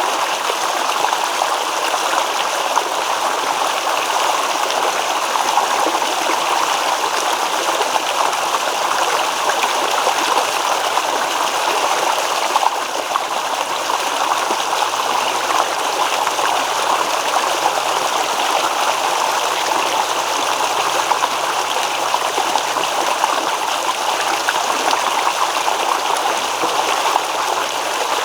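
Shallow stream babbling and rippling steadily over stones.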